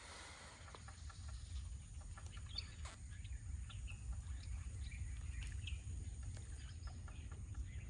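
Birds chirping now and then, short high calls scattered through the middle of the clip, over a low steady rumble.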